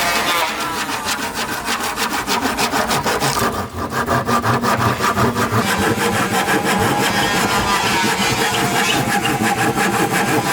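Wood being sawn: a continuous, rhythmic rasping of a saw cutting through timber, with a brief pause a little before four seconds in.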